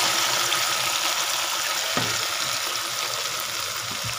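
Wet blended masala paste of onion, garlic, ginger, tomato and yogurt frying in hot ghee in a karahi: a loud, steady sizzling hiss that slowly dies down as the liquid cools the fat, with a couple of light knocks.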